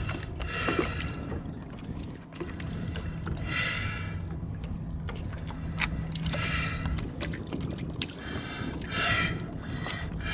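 Water sloshing around a boat over a low steady hum, with short raspy sounds that come back every two to three seconds.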